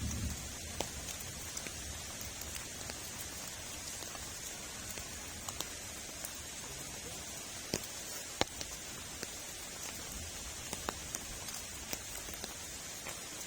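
Heavy rain falling steadily, with many individual drops striking as sharp ticks.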